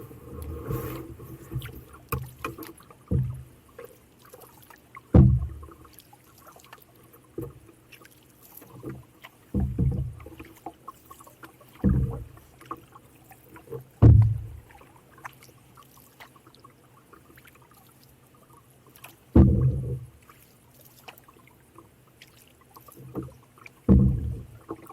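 Canoe paddling: a paddle stroke pulls through the water every two to five seconds, each a short, dull, low swoosh, with faint drips and small water noises in between.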